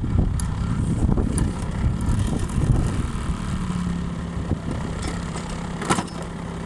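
Small 50 cc Honda scooter engine running roughly, then settling into a steady idle about halfway through. A single sharp click comes near the end.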